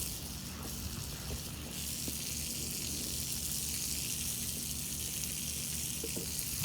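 Garden hose spraying water onto a car to rinse it, a steady hiss that grows stronger about two seconds in.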